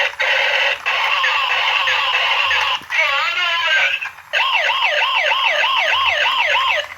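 Toy police car's electronic siren sounding, with nothing below the mid-range. It plays a fast warble for about three seconds, breaks off briefly twice, then switches to a steady rising-and-falling wail of about two to three sweeps a second.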